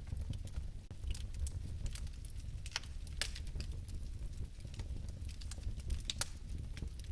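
Fire crackling: irregular sharp pops and snaps, a few louder ones around the middle and near the end, over a steady low rumble of flames.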